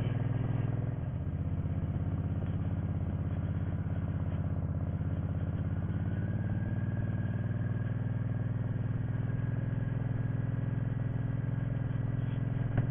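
Motorcycle engine running at low, steady revs through slow-speed circling, its speed held by feathering the clutch and dragging the rear brake. The level dips briefly about a second in.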